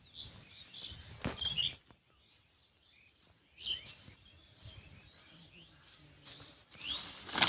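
Birds chirping: short, high, sliding calls every second or so over faint outdoor background noise.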